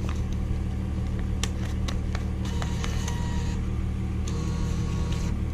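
Steady low hum of an idling car engine, with a few light clicks and taps over it.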